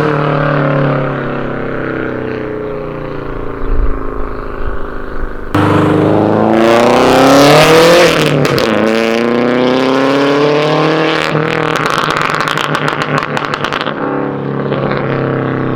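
A Subaru WRX's turbocharged flat-four engine exhaling through unequal-length headers and a catless exhaust. Its note falls away at first, then jumps up abruptly and revs up and back down, followed by a spell of irregular crackling.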